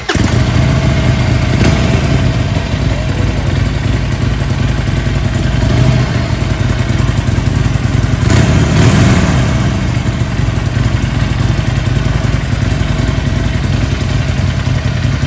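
2021 Harley-Davidson Forty-Eight's air-cooled 1200 cc V-twin running on its stock exhaust, mostly at a steady idle, with the revs rising briefly about eight seconds in as the bike moves off.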